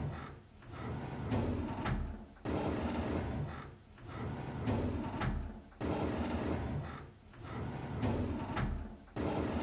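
A drawer sliding open on its runners again and again, each slide a scraping rumble of about a second. Some slides start with a sudden jolt.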